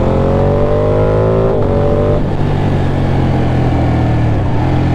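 Ducati Panigale 899's 898 cc Superquadro V-twin accelerating, its note rising with a quick gear change about a second and a half in. About two seconds in the throttle eases off, and the engine runs on lower under a rush of wind and road noise.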